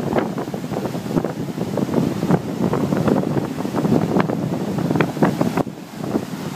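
Floodwater rushing and churning over a flooded causeway, with wind buffeting the microphone. The noise is steady and dips briefly near the end.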